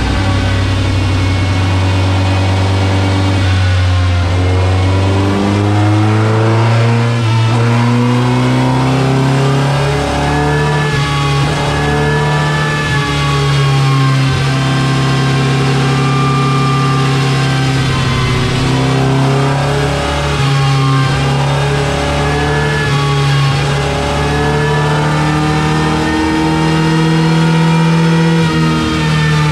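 Peugeot 205's 1.4-litre 16-valve TU3JP4 four-cylinder engine running hard under load on a rolling road, driving the front wheels. The engine note holds steady, then steps up and down in pitch several times.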